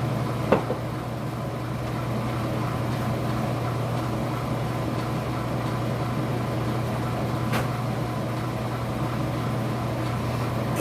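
Steady low mechanical hum of a running household appliance, with a sharp click about half a second in and a fainter tick later on.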